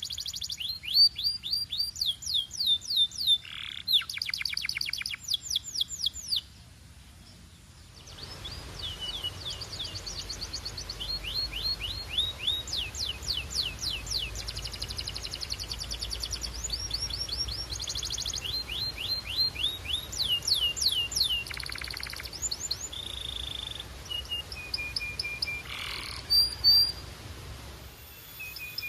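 Canary singing: fast trills of repeated sliding whistled notes, with a short pause about six seconds in, then more trills and a few held whistles.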